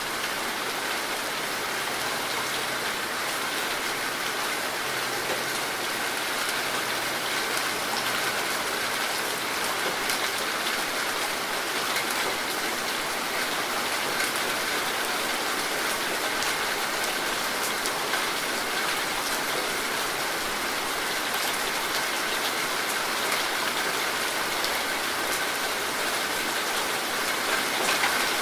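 Heavy rain falling steadily: a dense, even hiss with scattered drops ticking on surfaces.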